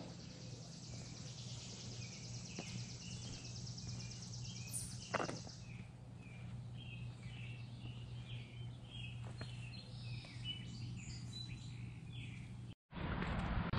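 Quiet outdoor ambience with small birds chirping in short, repeated calls, over a high, fast buzzing trill that stops about five seconds in.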